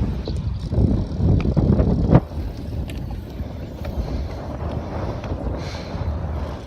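Wind noise and low rumble on the microphone of a camera riding along on a road bike. The noise is strongest in the first two seconds and ends in one sharp click.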